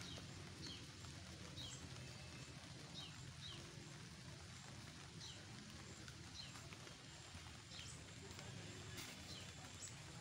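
Faint outdoor ambience with a bird giving repeated short, high chirps that fall in pitch, often in pairs, every second or so, over a low steady hum.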